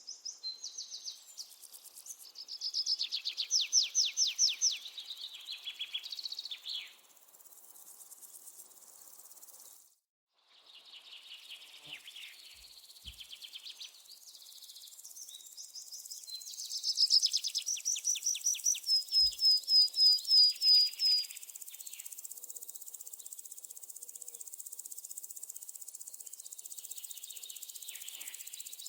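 High-pitched chirping trills in several bouts, each a rapid run of repeated notes, with a steady high buzzing hiss underneath in the last third. The sound drops out abruptly for a moment about a third of the way in.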